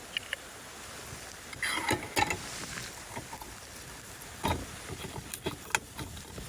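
Knocks, clicks and rustling of gear being handled by hand, with a few sharper knocks about two seconds in and again in the second half.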